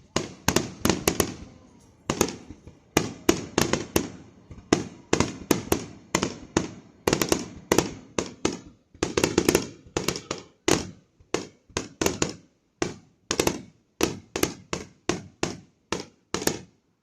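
Fireworks going off in a long, irregular string of sharp bangs, about two or three a second, each dying away quickly.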